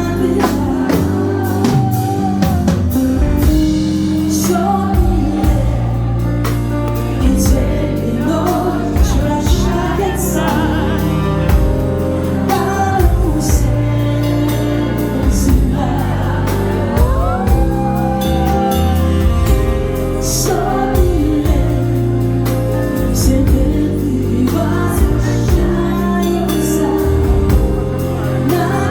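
Live band playing a song with a woman singing, drum hits keeping a steady beat under the accompaniment.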